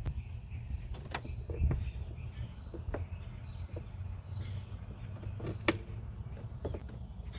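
Scattered light clicks and knocks, the loudest about two-thirds of the way through, over a low steady rumble.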